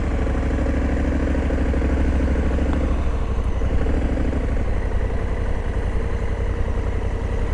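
Honda Africa Twin motorcycle's parallel-twin engine running steadily at low speed. A humming tone in it fades out about three to four seconds in.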